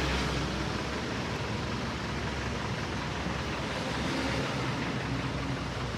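Steady city street noise: road traffic passing with a constant hiss.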